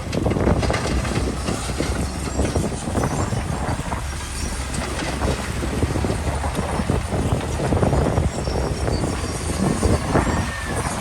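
Heavy earthmoving machinery at work: a diesel engine rumbling under a continuous, irregular clatter and grinding of rock and metal.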